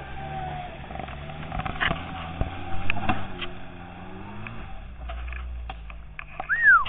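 A Lada Niva's four-cylinder engine working under load as it climbs through mud, its revs rising and falling, with scattered knocks and clicks. Near the end there is a loud, short, high-pitched tone that rises and then falls.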